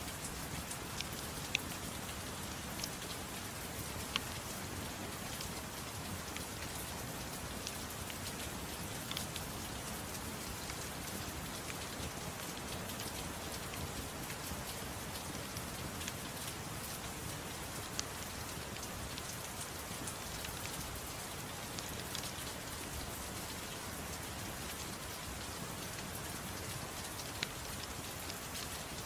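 Steady soft rain mixed with a crackling fireplace, a few sharp pops standing out now and then over the even patter.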